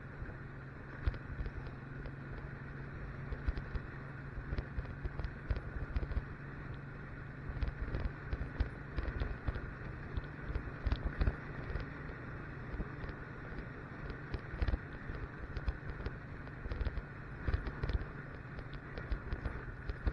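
Motorcycle running steadily while riding, with wind gusting against the microphone in repeated low rumbles.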